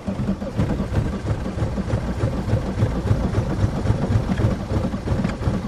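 Starter motor cranking the 1993 VW Jetta's AAZ 1.9 litre turbo diesel in a steady rhythm without it catching: a hard cold start in freezing weather with only one working glow plug.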